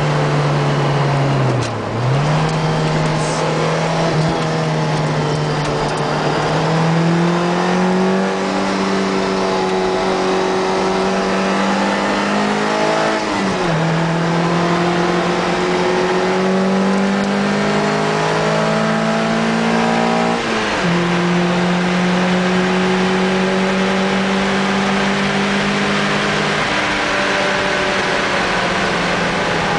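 Lotus Elise 111S's 1.8-litre four-cylinder engine heard from on board, running hard at high revs on track. The pitch climbs slowly and drops sharply four times, near the start, about a third and two thirds of the way in, and near the end, as the driver changes gear or lifts.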